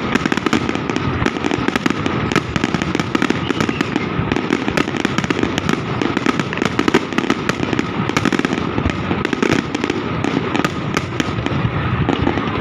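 Fireworks display firing without a break: a dense, rapid string of bangs and crackles.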